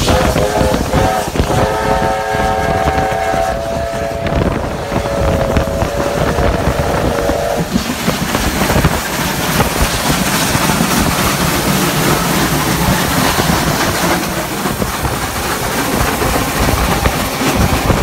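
Train whistle sounding three times in the first eight seconds, a short blast then two long ones, over the steady rumble and clatter of trains running side by side. After that the running noise carries on, with wind on the microphone.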